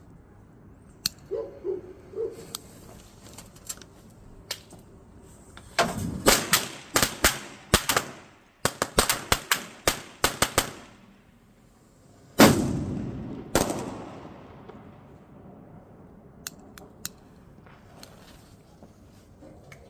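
Firecrackers going off. A few scattered pops, then two rapid strings of sharp bangs, then two louder booms that echo away, and a few last pops.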